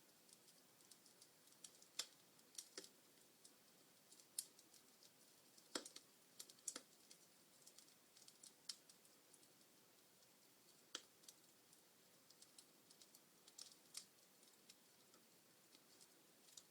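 Wood fire crackling in a fireplace: irregular sharp pops and snaps from burning logs over a faint hiss.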